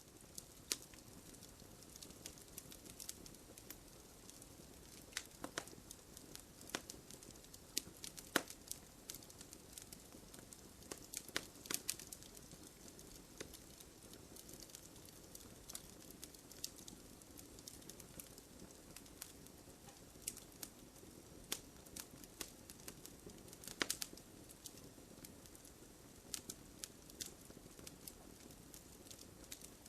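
Wood campfire burning, with irregular sharp crackles and pops over a low steady hiss of the flames.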